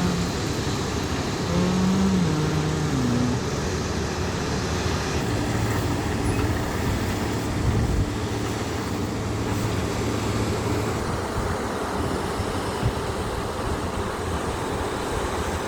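An engine running over a steady, even hiss. Its pitch wanders up and down in the first few seconds, then holds steady.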